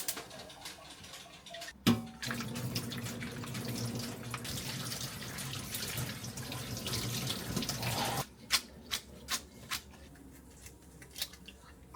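A tap runs water into a sink for about six seconds, starting about two seconds in and stopping suddenly. A few light knocks follow near the end.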